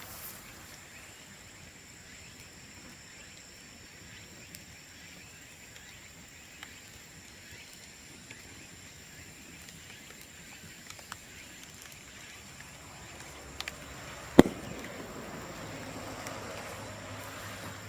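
Bamboo burning in an open bonfire: quiet crackling with scattered small ticks, and one sharp loud pop about fourteen seconds in, a bamboo section bursting from the heat.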